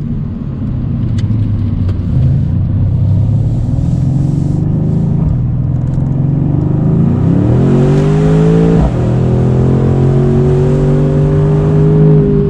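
Mercedes-AMG C63's twin-turbo V8 pulling the car along at a steady cruise, then accelerating, its note rising for about two seconds. A brief break comes as it shifts up, and then it pulls on at a steadier, slowly rising pitch.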